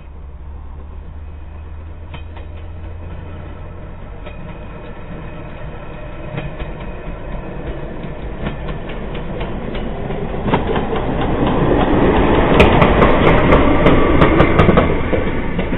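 A1 Pacific steam locomotive 60163 Tornado running light engine, approaching and growing steadily louder to its loudest about twelve to fifteen seconds in, with a run of sharp clicks as it draws level.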